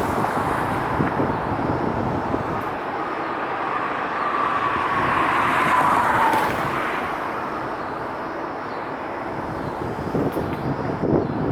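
Jet airliner's engines passing by: a steady rushing noise with an engine whine that drifts slightly down in pitch and fades out about two-thirds of the way through.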